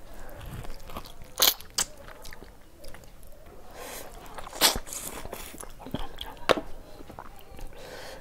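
Close-up chewing and mouth noises of someone eating mutton curry by hand, with a few sharp clicks spread through.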